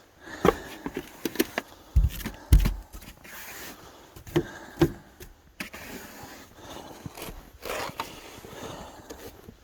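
Clunks, knocks and scraping at a car while a snow brush is fetched out of it, with two heavy thumps about two seconds in.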